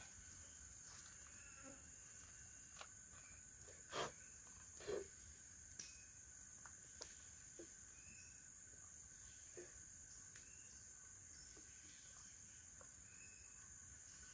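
Steady, faint high-pitched drone of forest insects, with short faint chirps and a couple of soft knocks about four and five seconds in.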